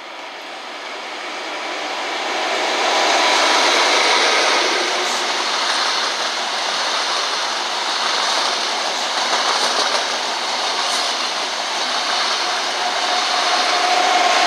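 A train running along the track past the platform, its rolling noise building over the first three seconds and then holding steady.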